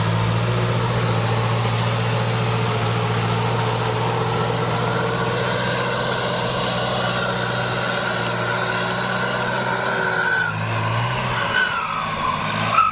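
Kubota tractor's diesel engine running steadily under ploughing load, with the whine of its VGS turbocharger above the engine note. Near the end the engine note changes and the turbo whine falls in pitch.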